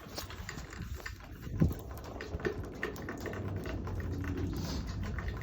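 Irregular light clicks and taps, like typing on a keyboard, over a low steady hum, with one louder low thump about one and a half seconds in.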